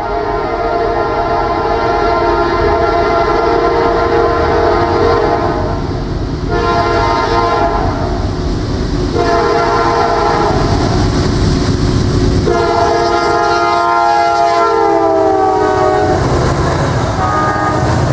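Diesel locomotive's air horn sounding a chord in several long blasts with short breaks, its pitch sliding lower near the end as the train passes, over the rumble of the train on the rails.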